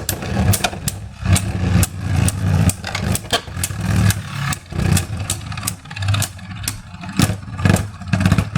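Spinning Beyblade tops in a plastic stadium: a steady whir with many sharp, irregular clacks as they strike each other and the stadium wall.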